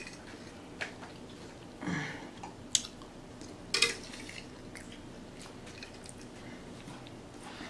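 Close-up chewing with the mouth closed, with a few sharp clicks spread through the first half and a brief low hum about two seconds in.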